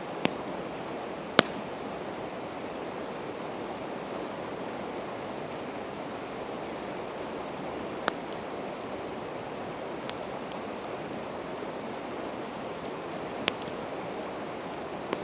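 Campfire of split evergreen wood crackling, with five sharp pops, the loudest about a second and a half in, over a steady rush of river water.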